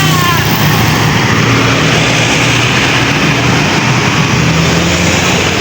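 Vehicle engine running steadily under a dense, even road noise, with a deep low hum.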